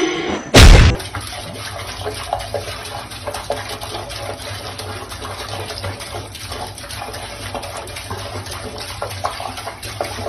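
Water running steadily with small irregular splashes, after a brief loud burst about half a second in.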